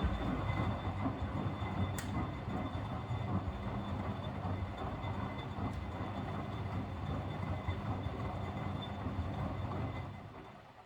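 Miele W761 washing machine's drum turning through one wash stroke with no laundry in it: a steady rumble with a faint motor whine, starting suddenly and dying away about ten seconds later, with a single click about two seconds in.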